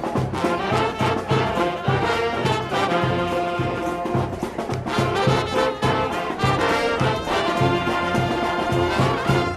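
Brass-led ensemble music with a steady pulsing bass line and percussion, stopping at the very end.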